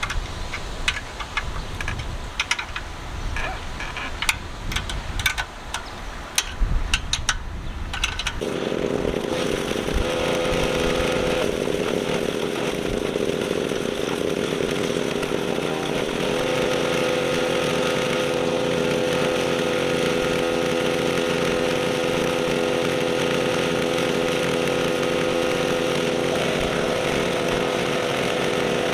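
Scattered clicks and knocks, then, about eight seconds in, the small gas engine of a Craftsman pressure washer starts suddenly and runs steadily. It is the engine running again after its no-start was repaired.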